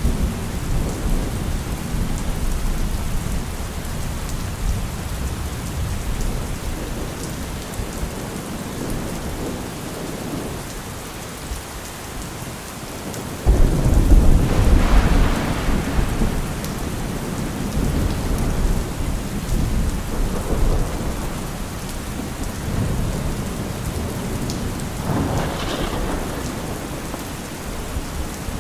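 Heavy rain falling steadily with rumbling thunder. About halfway through, a sudden loud thunderclap rolls on for a few seconds, and a lighter peal comes near the end.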